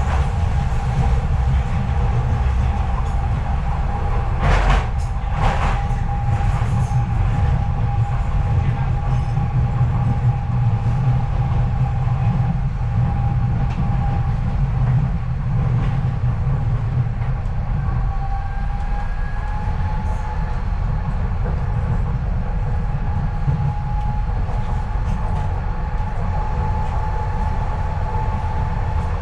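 Docklands Light Railway train running, heard from inside the carriage: a steady low rumble with a steady motor whine, and two short knocks about four and five seconds in.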